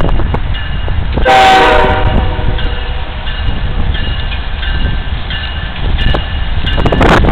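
Diesel freight train running by with a steady low rumble. A short horn blast sounds about a second in, and a loud rush of noise comes near the end.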